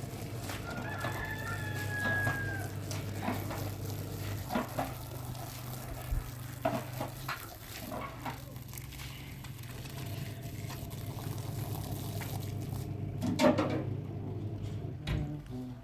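A rooster crows once, a held call about a second in, over scattered knocks and clatter and a steady low hum.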